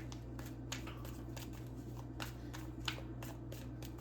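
Tarot cards being shuffled by hand: a run of quick, irregular papery clicks.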